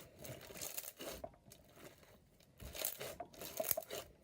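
Slushy slime full of foam beads being squeezed and crunched in the hands: irregular crackling and sticky popping, with a short lull about halfway through.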